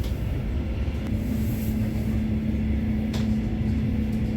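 Passenger train heard from inside the carriage as it gets under way: a steady low rumble, with a steady hum coming in about a second in and a faint tick about three seconds in.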